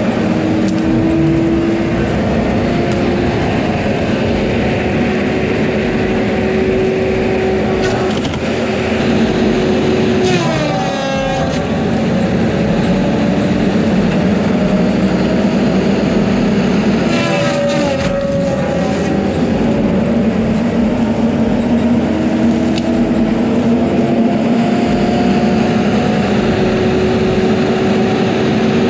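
Diesel engine of a piece of heavy logging equipment running steadily. Its pitch dips sharply twice, about ten and seventeen seconds in, and then climbs slowly back up.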